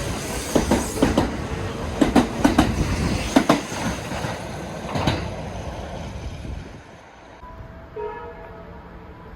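Train wheels clacking over the rail joints in uneven pairs and groups as a train runs past the platform. The clatter dies away after about five seconds.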